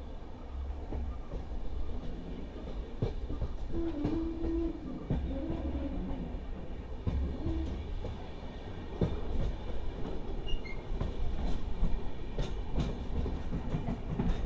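Passenger train running along the track, heard from aboard: a steady low rumble with irregular clacks of the wheels over rail joints, and a short whine about four seconds in.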